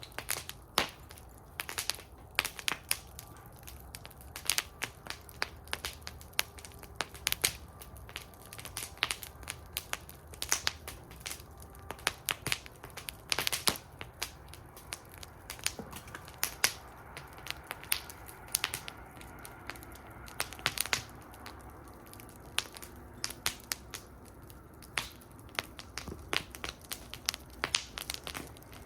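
Wood fire burning in a metal fire bowl, crackling with irregular sharp pops and snaps over a low steady rumble of the flames.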